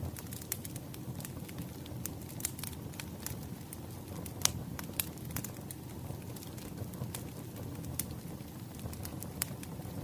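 Wood fire crackling: irregular sharp pops and snaps over a low steady rumble, with one louder pop about four and a half seconds in.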